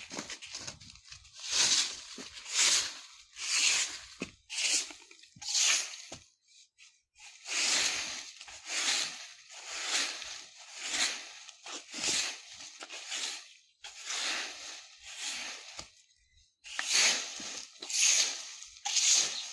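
A broom sweeping dry fallen leaves across the ground: rustling, crunching strokes at about one a second, pausing briefly twice.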